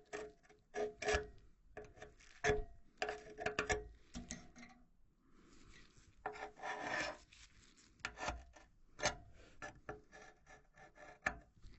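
A metal pick scraping and poking at the corroded metal of a Carrier gas furnace heat exchanger, in irregular short scrapes and clicks with one longer scrape a little past halfway. The metal is rotted enough to give way under a light push.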